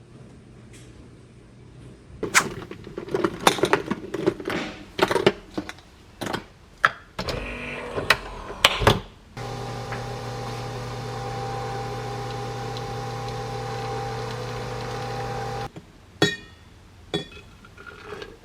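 Clattering and clicking of dishes being handled, then a microwave oven running with a steady hum for about six seconds before cutting off abruptly, followed by a few clicks.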